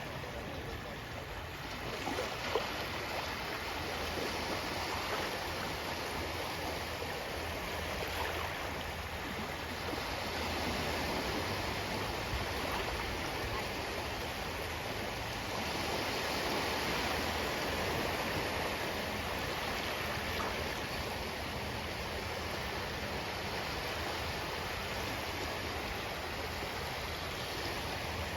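Ocean waves washing on a shore, a steady surge of surf that swells and eases every few seconds.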